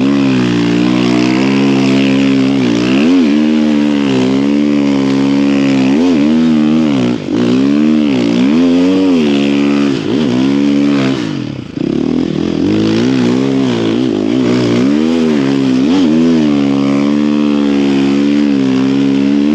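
Snow bike engine revving up and down in repeated surges while being ridden, easing off briefly about seven seconds in and again near twelve seconds.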